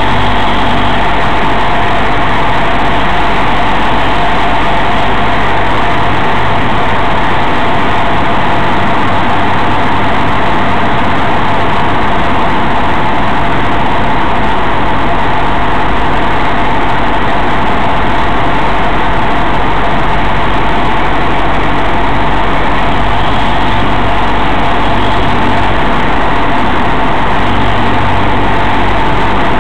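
Cessna 172's piston engine and propeller running steadily, heard loud inside the cockpit, with no change in power.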